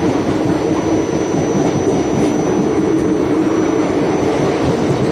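Passenger express train running, a loud steady rumble and rush of wheels on the track heard at an open coach door. It cuts off suddenly near the end.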